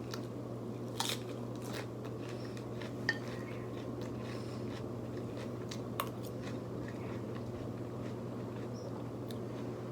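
Close-up chewing and biting of food, with a few sharp clicks, over the steady hum of an overhead fan.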